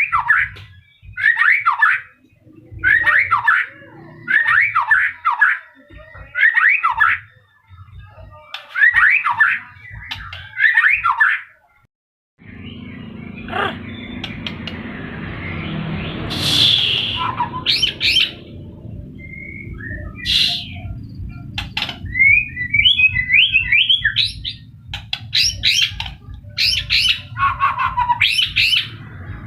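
White-rumped shama singing: short repeated song phrases about a second apart. After a brief break near the middle, more varied phrases and sharp clicks follow over a steady low background noise.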